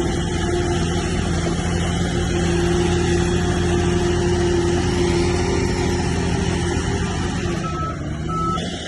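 Bulldozer's heavy diesel engine running steadily. Near the end the sound dips briefly and two short high beeps sound.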